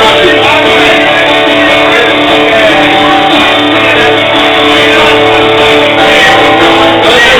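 Loud live music led by a strummed guitar, played steadily without a break.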